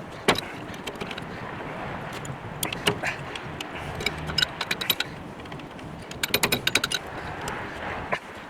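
Metal tool clinking and clattering against the gland of a skid steer's hydraulic bucket cylinder as it is twisted, the makeshift tool slipping off the gland. One sharp knock comes just after the start, then bursts of rapid clicks about three, four and a half and six and a half seconds in.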